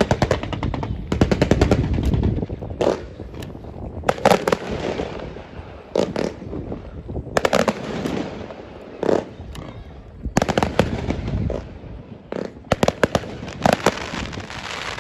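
Fireworks going off in rapid volleys: fast strings of sharp bangs and crackles, coming in bursts of about a second with short pauses between them.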